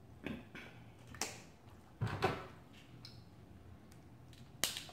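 Several separate sharp clicks and cracks of hard seafood shells being handled and broken apart while eating, the loudest about two seconds in.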